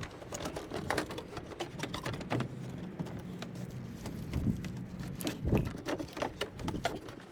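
Irregular clicks, taps and light knocks of parts being handled in a pickup's engine bay as the loosened engine fan is worked free, over a faint steady low hum.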